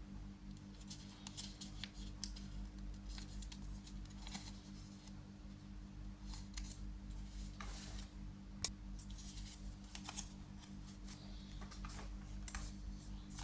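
Square origami paper being folded and creased by hand: irregular crisp rustles and crinkles, with one sharper snap of the paper a little past the middle, over a steady low hum.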